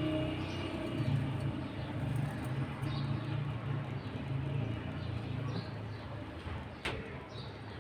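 Birds calling: a low, cooing sound for most of the stretch, with short faint high chirps scattered through.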